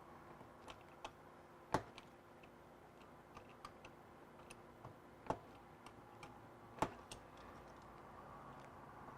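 Small wire cutters snipping wire ends: three sharp snips, with lighter clicks of handling in between.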